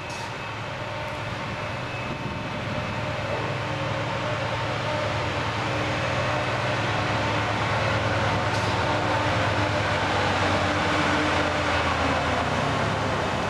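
A train running through the station with a steady rumble and a low hum, growing gradually louder as it comes closer.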